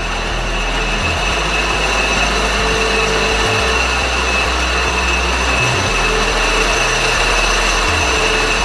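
1941 LeBlonde Regal 17-inch lathe running steadily at low speed, its 5 hp three-phase motor driven through a variable frequency drive: a continuous mechanical whir of motor and gearing with a constant high whine.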